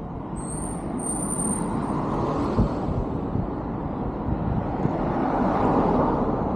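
A road vehicle passing along the street, its tyre and engine noise swelling to a peak a few seconds in. A thin high squeal sounds briefly about half a second in.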